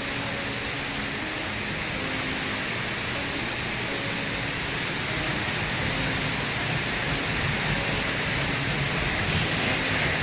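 Steady rush of water, an even hiss that slowly grows a little louder.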